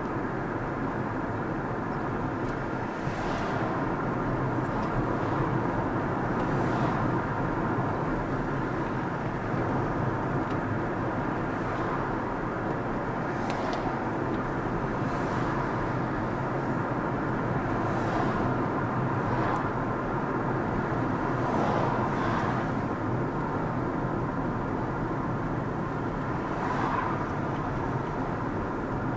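Steady road noise of a car driving, tyres and engine running evenly, with a few brief hissing swishes spread through.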